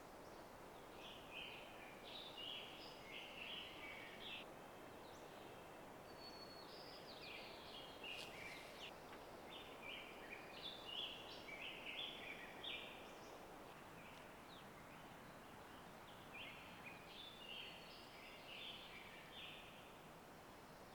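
Songbirds singing faintly in a forest: quick runs of short chirping notes in three spells, about a second in, around the middle, and again near the end, over a soft steady hiss of the surroundings.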